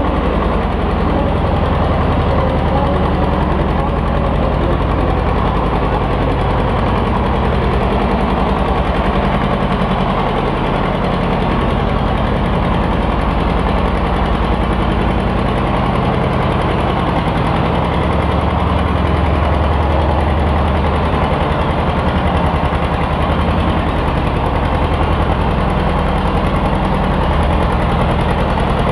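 Farm tractor engine running steadily with a rapid firing beat. Its low note swells and dips.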